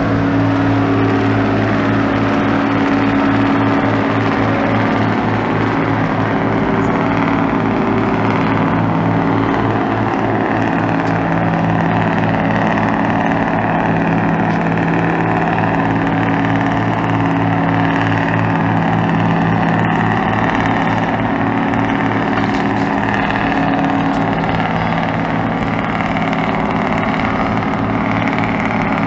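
Tugboat engine running steadily at constant speed: a low drone with a fast, even throb that does not change.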